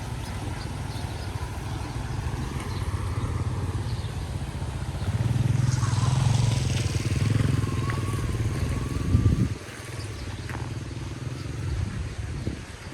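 A small engine running steadily with a low chugging note. It gets louder partway through, then drops off sharply about nine and a half seconds in.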